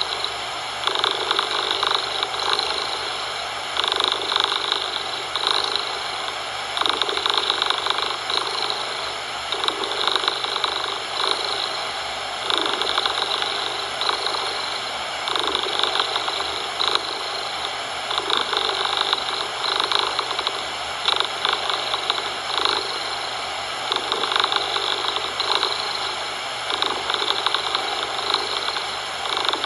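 Domestic cat purring, swelling and easing in a regular rhythm about every one and a half seconds as it breathes in and out.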